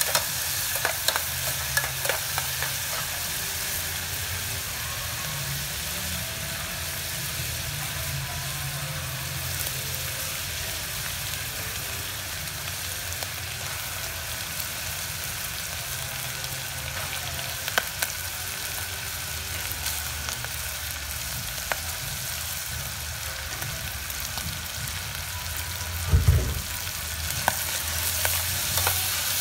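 Minced meat sizzling in hot oil in an aluminium pot, stirred with a metal spoon that clicks and scrapes against the pot now and then. A brief dull thump near the end.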